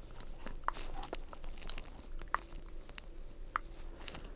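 Scattered soft clicks and light crinkles from skincare extraction tools and props handled close to the microphone, with a faint steady hum underneath.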